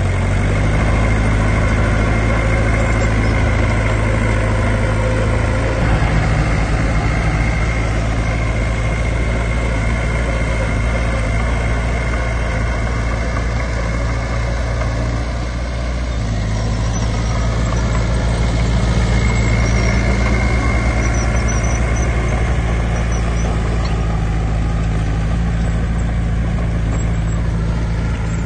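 Heavy diesel engine of earthmoving machinery running steadily and loudly. Its note shifts about six seconds in and again around sixteen seconds.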